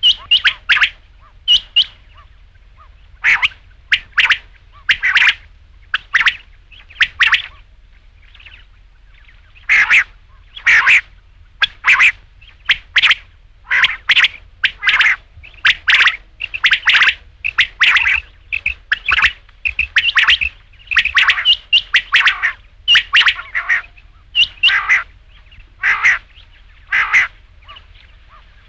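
Rain quail calling: short, sharp notes, often doubled, repeated about once a second with a brief pause around eight seconds in, over a faint low hum.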